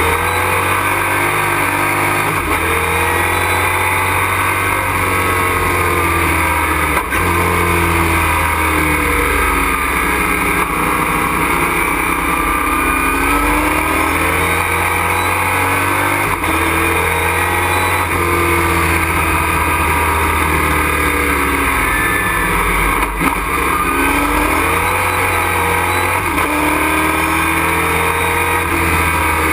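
Race truck's engine heard from inside the cockpit, its revs climbing and falling again and again through the gears, with two brief cuts in the sound along the way.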